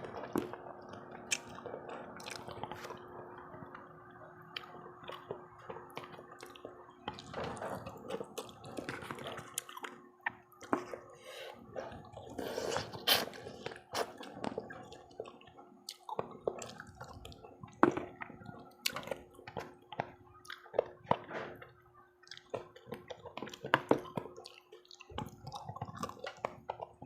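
Close-up eating sounds: wet chewing and slurping of soup, with many short sharp clicks scattered throughout and a faint steady hum underneath.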